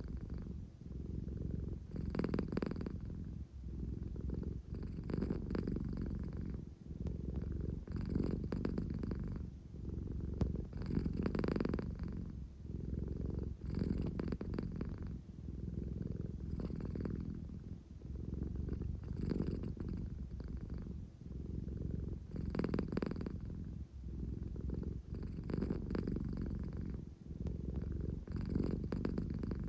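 American Shorthair cat purring continuously, the purr swelling and easing with each breath about every three seconds. It is the purr of a sleepy cat wanting affection.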